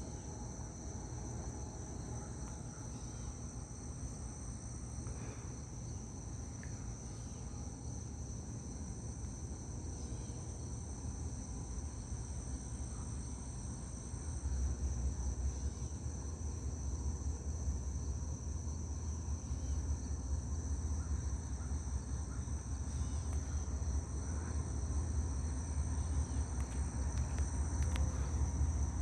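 Crickets chirping steadily, while the low rumble of an approaching diesel-led freight train grows louder from about halfway through.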